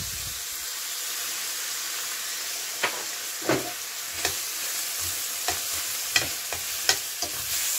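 Browned beef chunks and onions sizzling steadily in a stainless steel pot on high heat, with flour just dusted over them. From about three seconds in, a metal utensil scrapes and clicks against the pot a number of times as the flour is stirred through the meat.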